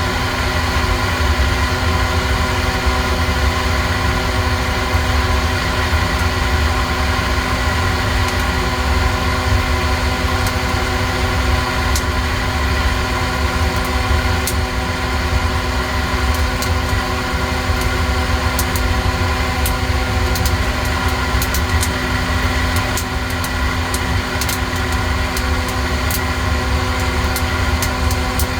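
Steady hum and rumble of the coffee-roasting heater and motor running. Sharp clicks start about twelve seconds in and come more and more often in the second half: the beans cracking as the roast goes on.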